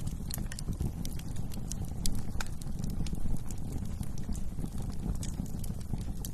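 Wood fire burning in a fireplace: a steady low rumble of flames with irregular sharp crackles and pops, one louder pop about two seconds in.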